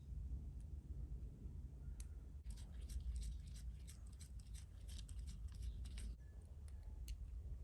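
A quick run of small sharp clicks or snips from handling small parts at the bench, lasting about four seconds in the middle, over a low steady hum.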